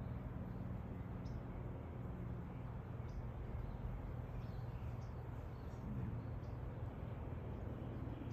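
Faint, short, high-pitched bird chirps repeating every second or two over a steady low background rumble.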